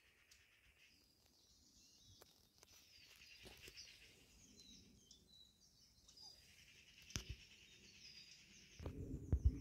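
Faint chirping and twittering of small birds in woodland, with a sharp click about seven seconds in. Near the end a louder low rumbling noise comes in.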